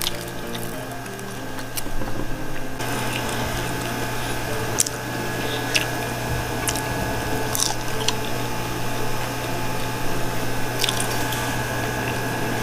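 Close-miked eating of crispy fried chicken wings: chewing and wet mouth sounds, with several sharp bite clicks spread through.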